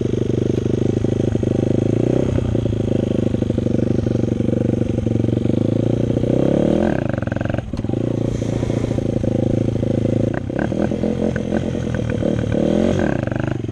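Dirt bike engine running, its revs falling and then climbing again about six seconds in and once more near the end.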